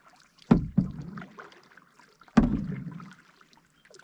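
Two paddle strokes in calm water, about two seconds apart. Each starts with a sudden splash and knock and trails off into the swish of water along the boat.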